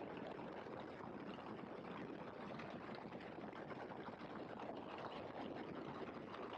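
Faint steady rushing noise of a Great Lakes open-cockpit biplane in flight: engine and airflow, with no distinct engine tone.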